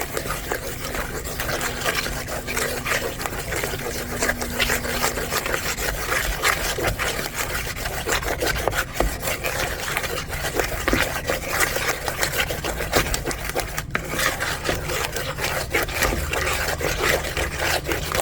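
Chicken salad being stirred and mixed in a bowl: continuous rubbing and scraping with frequent small knocks of the utensil against the bowl.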